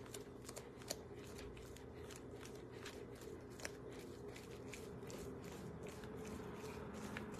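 A fork shredding cooked chicken: a faint, irregular run of small scraping clicks, several a second, as the tines pull the meat apart.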